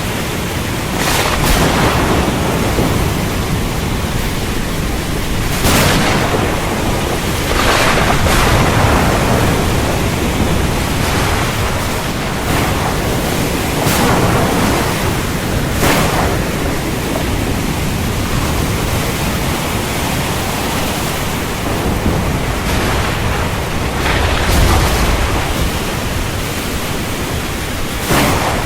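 Steady heavy rain, with thunder rumbling in several brief surges and the deepest roll about three-quarters of the way through.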